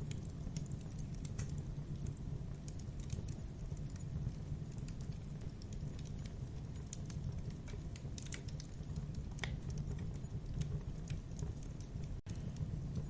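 Campfire burning: wood crackling with scattered sharp pops over a steady low rumble of the flames.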